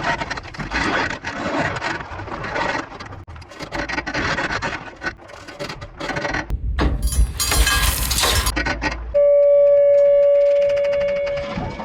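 Loose gravel road base sliding and rattling in a gritty, crackling rush, louder and hissier for a moment near the middle. About nine seconds in, this gives way abruptly to a loud, steady electronic tone.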